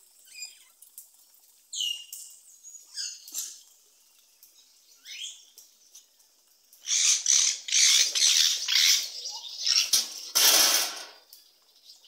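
Birds calling: a few short chirps that fall in pitch in the first half, then, from about seven seconds in, a run of loud, harsh, rasping bursts, the loudest just before the end.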